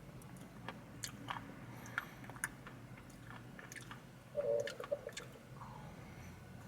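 Close-up chewing and mouth sounds of someone eating an ice cream chocolate chip cookie sandwich: scattered soft clicks, with one louder burst a little past halfway.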